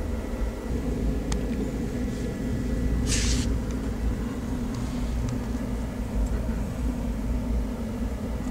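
Passenger train running, heard from inside the coach: a steady low rumble of wheels on the track, with a brief hiss about three seconds in.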